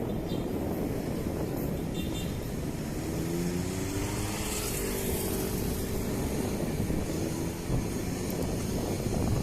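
Steady wind rumble on the microphone of a moving bicycle, with a motor vehicle's engine passing close by about three seconds in, its pitch rising and then holding for a few seconds.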